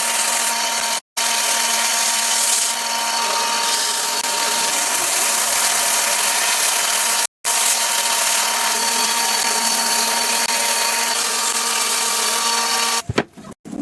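An electric power tool running steadily, with two brief dropouts to silence. Near the end it gives way to short, irregular bursts of sound.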